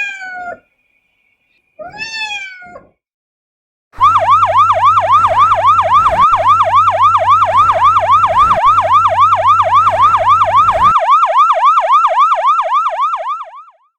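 Two short pitched calls, the first falling and the second rising then falling, like a cat's meow, followed by a fast electronic siren-like warble of about four cycles a second that runs for roughly nine seconds and fades out near the end.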